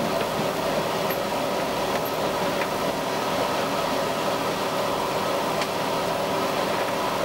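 Diesel railcar running along the track, heard from inside the driver's cab: a steady engine hum with several fixed tones and a few faint ticks.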